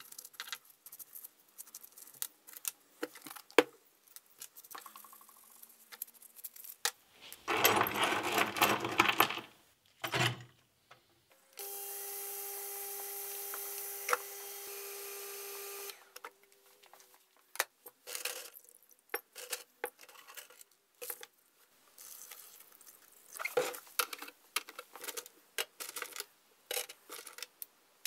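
Digital ultrasonic cleaner running for about four seconds with a steady hum and a hiss, then stopping sharply. Before it comes a loud rough buzz lasting about two seconds, and scattered clicks and taps of handled parts run throughout.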